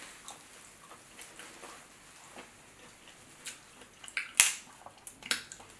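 Eating and handling sauce-covered crab: faint scattered wet clicks and mouth smacks, with a few louder sharp crackles of shell a little after four seconds in and again near the end.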